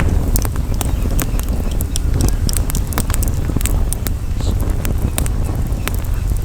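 Wood campfire crackling, with many irregular sharp pops and snaps, over a steady low rumble of wind on the microphone.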